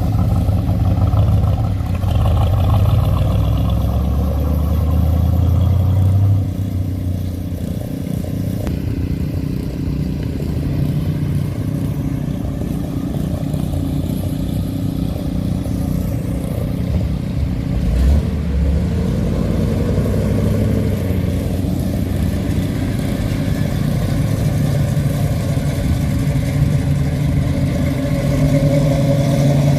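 Hot rod and classic car engines running as the cars drive past one after another, loudest over the first six seconds, with a brief low thump about eighteen seconds in.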